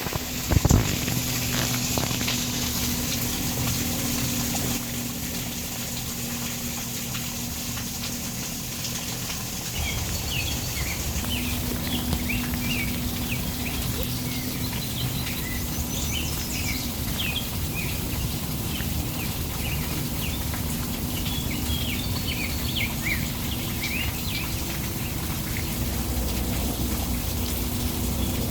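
Steady rush of water with birds chirping in quick short notes over it through the middle stretch, and a low steady hum underneath. A couple of sharp knocks sound right at the start.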